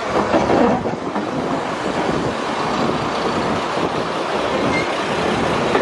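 Steam-hauled heritage train carriage rolling slowly into a station, heard from an open window: a steady noisy running sound, with wind on the microphone.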